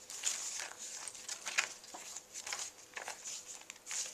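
Paper rustling and crinkling in short irregular bursts as the pages of a handmade junk journal are handled and turned.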